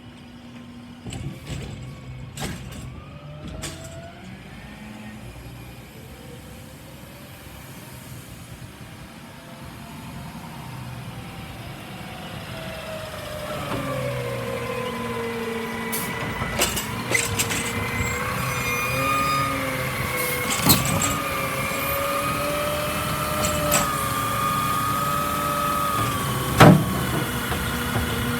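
Garbage truck running, with an engine rumble and a wavering whine that grow louder through the second half, broken by a few sharp knocks.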